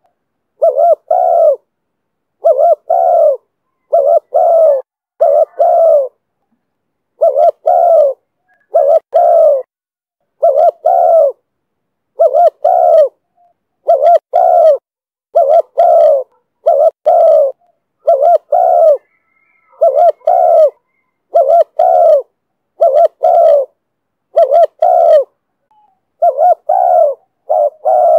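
Spotted dove cooing: short coos, mostly in pairs, repeated over and over about every second or so, with dead silence between the pairs.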